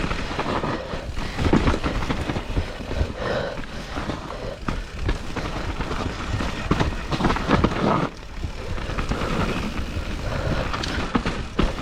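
Mountain bike ridden fast over a rough dirt race trail: tyre noise on the dirt with a run of knocks and rattles from the bike over bumps, and wind buffeting the microphone.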